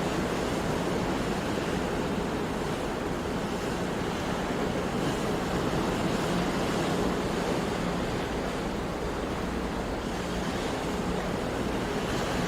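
Ocean waves breaking and washing on a shore, a continuous surf with slow rises and falls in level.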